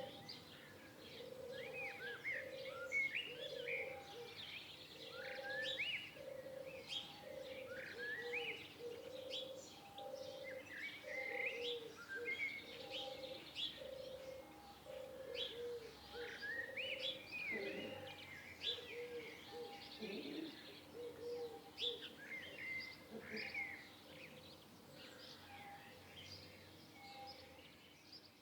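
Mixed birdsong: many birds chirping and whistling short, quick notes, over a low note repeated a little more often than once a second that fades out near the end.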